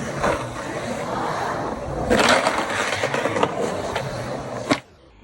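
Skateboard wheels rolling, with a louder stretch of noise about two seconds in and several sharp clacks of the board. The sound cuts off abruptly near the end.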